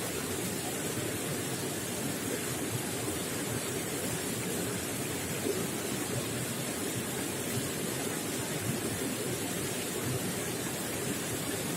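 Running water gurgling and splashing in a steady, unbroken rush.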